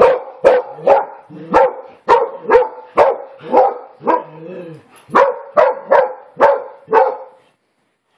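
Dog barking repeatedly during rough play, about two barks a second, stopping shortly before the end.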